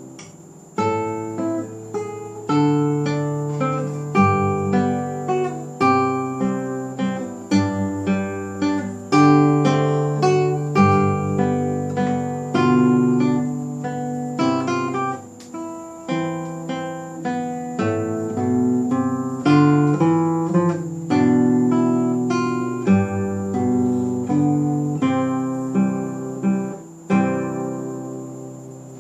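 Classical guitar played fingerstyle: a slow solo piece in three-four time, with plucked melody notes over held bass notes. The last notes ring and fade out near the end.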